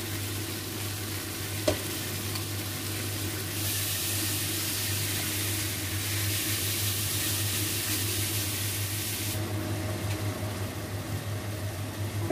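Diced pork belly sizzling in a stainless steel saucepan while it is stirred with chopsticks. The sizzle turns brighter for several seconds in the middle, over a steady low hum, with one sharp click just under two seconds in.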